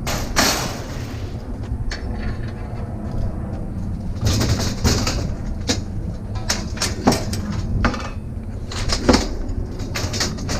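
Knocks and clanks of curbside scrap appliances being handled and loaded onto a trailer, in irregular clusters, over a steady low rumble.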